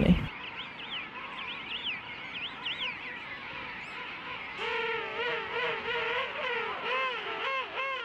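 King penguin colony calling: many overlapping warbling calls whose pitch wavers up and down, with thin high whistles in the first half and louder, fuller calls from about halfway on.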